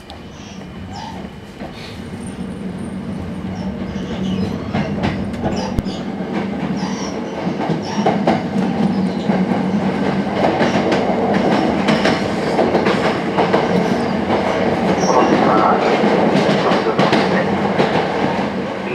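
Sanyo Electric Railway 5000 series electric train heard from inside a passenger car as it pulls away from a station and gathers speed: the running noise grows steadily louder, with the wheels clicking over rail joints and a steady low hum.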